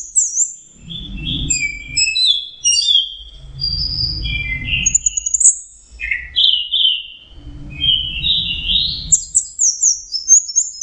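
Orange-headed thrush singing a fast, varied song of short high whistles, slurred notes and trills, one phrase running into the next. A low rumble comes and goes underneath.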